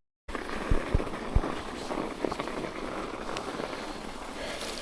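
Mountain bike being ridden on a trail: steady wind and tyre noise, with a few sharp low thumps in the first second and a half.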